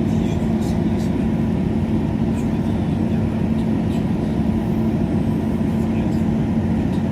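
Passenger train running between stations, heard inside the carriage: a steady drone of running and rail noise with a constant low hum and faint scattered ticks.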